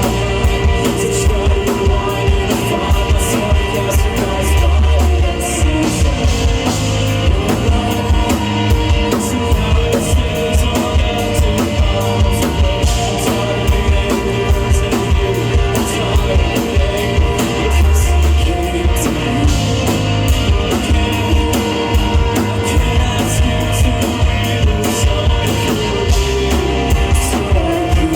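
Live rock band playing a song: a drum kit keeping a steady beat under guitars, with singing.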